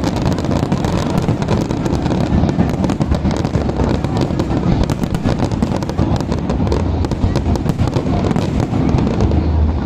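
Aerial fireworks display: a continuous dense crackle of many small pops and bangs over a steady low rumble.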